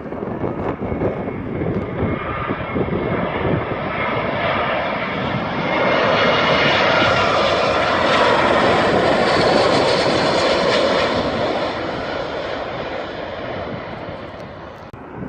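A landing airliner's engines passing low on approach, the rushing noise building to its loudest about halfway through and then fading away near the end. Wind buffets the microphone throughout.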